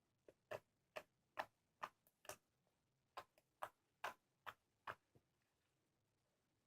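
Slime being squished and pressed by hand, giving a run of sharp sticky clicks and pops, about two a second, that stop about five seconds in.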